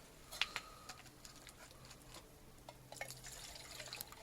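A few faint clicks and light knocks of a metal camping pot and water being handled as water is put on to heat, with a faint trickle of water near the end.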